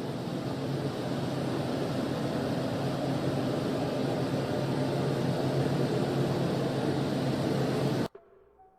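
A loud, steady rushing noise with a low hum under it, cutting off suddenly about eight seconds in.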